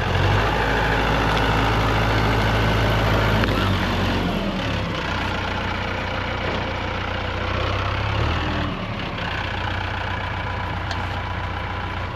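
Tractor engine running under load while pushing over a tree stump, its note shifting about four and a half seconds in and again about eight and a half seconds in.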